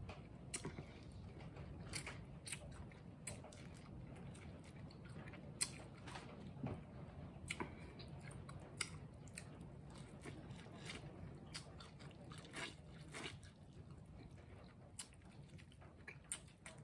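Close-up eating sounds of biting and chewing kernels off a buttered corn on the cob: irregular crisp clicks and smacks, a few a second, over a low steady hum.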